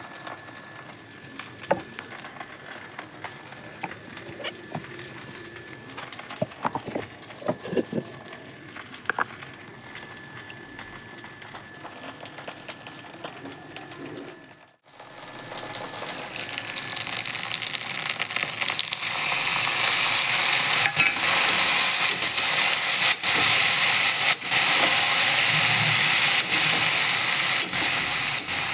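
A few light taps and clinks, then after a short break okra (bhindi) sizzling as it fries in oil in a kadai, building up over a few seconds and staying loud.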